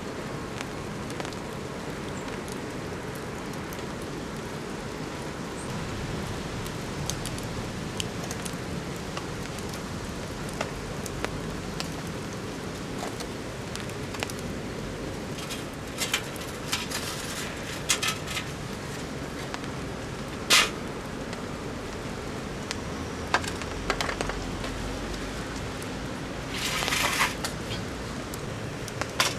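Steady rain falling, with sharp crackles and pops from a small wood fire scattered through, and a longer run of crackling near the end.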